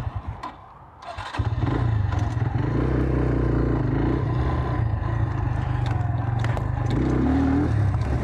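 Small enduro motorcycle engine: uneven and low for about the first second, then it comes on sharply about a second and a half in and runs on steadily and loud.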